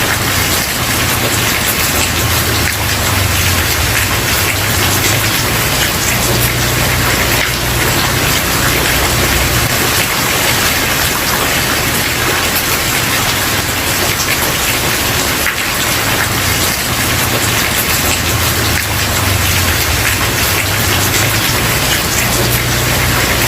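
Steady heavy rain pattering on a wooden porch, a dense, even hiss of drops. A low rumble swells and fades underneath.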